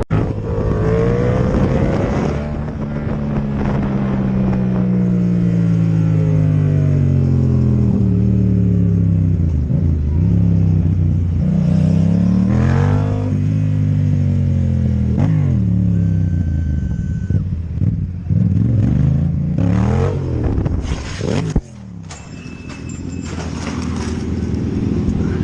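Motorcycle engine running under way, its pitch repeatedly rising and falling as the throttle opens and closes. A little over twenty seconds in, the sound drops off suddenly, then builds again.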